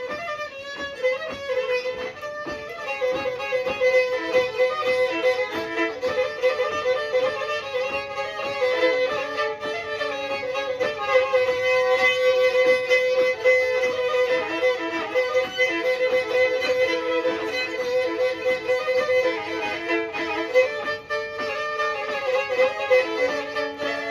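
Black Sea kemençe playing a fast instrumental passage, with a steady droning note under the quick melody.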